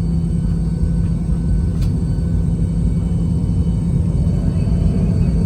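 Steady low rumble with a constant hum inside a Boeing 717's cabin near the tail, with one faint click about two seconds in.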